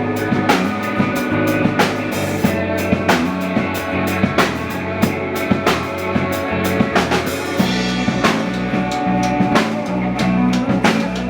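Band playing an instrumental passage: a drum kit with bass drum and snare keeps a steady beat over sustained chords, and the low end shifts about eight seconds in.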